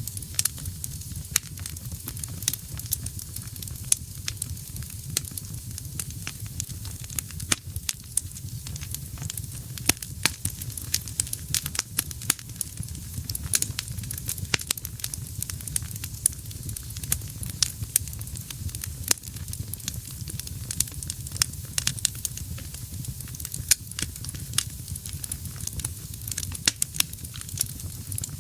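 Wood fire burning in a fireplace: dense, irregular crackles and pops from the burning logs over a steady low rumble of the flames.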